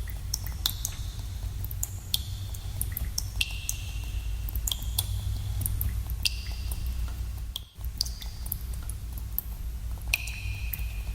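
Water drops dripping in a cave, irregular sharp plinks about once a second, several leaving a short ringing high note, over a steady low rumble. The background briefly drops out about two-thirds of the way through.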